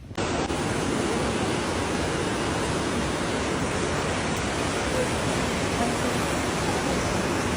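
Rushing floodwater: a steady, loud roar of water that starts abruptly and holds even.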